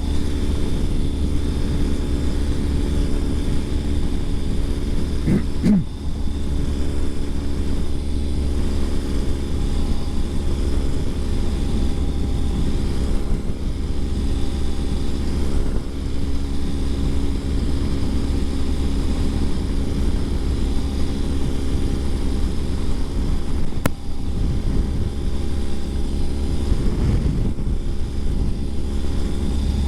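A 2020 Ural Gear Up sidecar motorcycle's air-cooled boxer-twin engine running steadily at road cruising speed. A short whine sweeps up and down about five seconds in.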